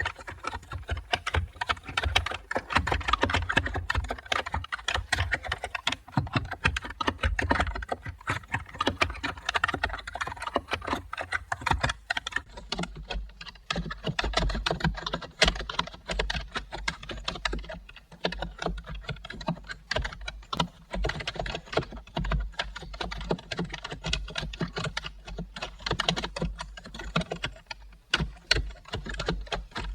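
Typing on a computer keyboard: a steady, fast run of keystroke clicks, many a second.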